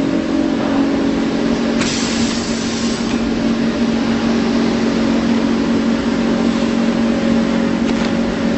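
PVC fabric welding machine running with a steady, loud hum. About two seconds in, a hiss lasting about a second rises over it, and a short fainter hiss comes near the end.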